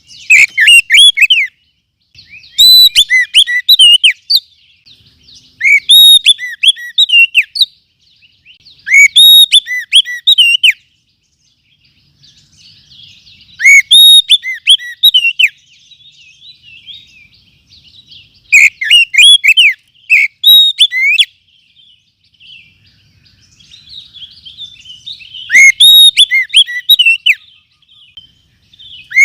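Oriental magpie-robin song played as a lure call: loud whistled phrases of one to two seconds, repeating every three to five seconds, with softer chattering in between.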